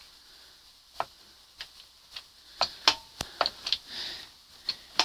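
Twist-grip throttle handle of a 1981 Evinrude 20 hp outboard being worked back and forth, giving about ten irregular sharp clicks as it grabs. The grip is too stiff and seems to catch at the handle.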